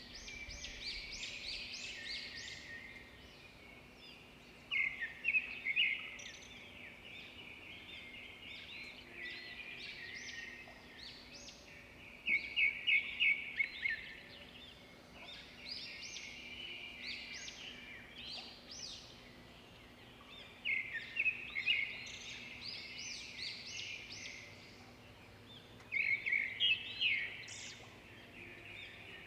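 Songbirds singing: continual high twittering, broken every several seconds by a louder burst of quick, rapid chirps.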